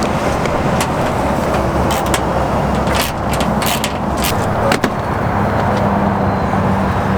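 Steady engine and road noise inside a van, with a scattering of sharp clicks and knocks over the first few seconds.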